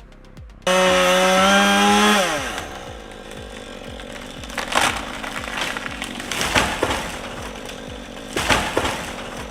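Chainsaw at full throttle, starting abruptly under a second in, then letting off so the engine note drops about two seconds in. After that comes a rougher stretch with several sharp cracks.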